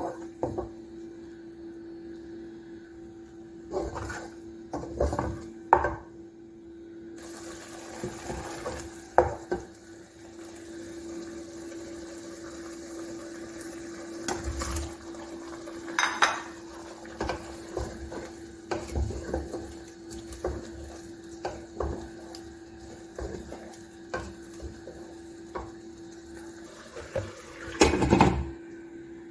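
Kitchen utensils clinking and knocking against pots and pans in irregular knocks, the loudest cluster near the end, over a steady hum.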